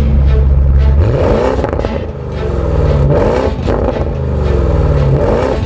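Porsche Cayenne Turbo GT's 3.9-litre V8 accelerating hard, its pitch climbing and then dropping at each upshift, about three times.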